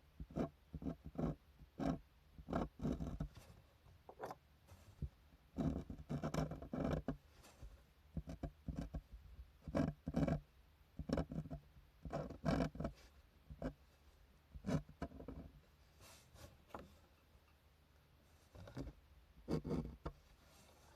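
Hand-drawing tools working on paper at a desk: a run of irregular short strokes, scratches and rubs with brief pauses between them.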